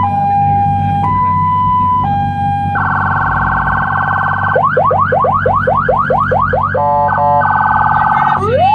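Aftermarket electronic police-style siren cycling through its tones: a high-low two-tone alternating about once a second, then a steady tone, then a fast rising yelp about five sweeps a second, and a wail starting to rise near the end. A low steady hum runs underneath.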